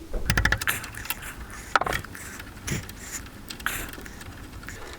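Metal spanner clicking and knocking against a motorcycle's front brake caliper and banjo bolt fitting: a quick rattle of clicks about a third of a second in, then a few single knocks.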